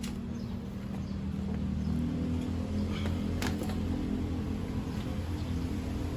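Steady low hum in the background with a few light clicks about three seconds in, from motorcycle fairing pieces being handled and unclipped.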